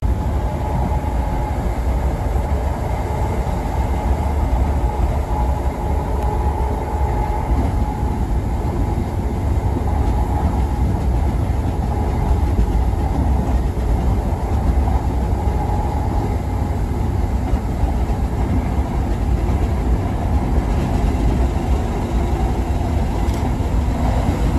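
Steady running noise heard from inside a moving train: wheels on the rails with a heavy low rumble underneath, holding level throughout.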